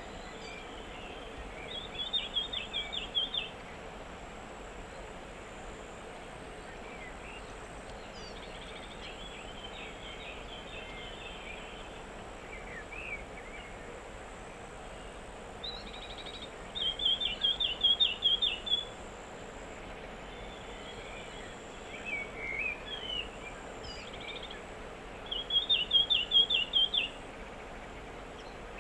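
A songbird singing a short, fast trilled phrase three times, loud against softer scattered chirps from other birds, over a steady outdoor background hiss.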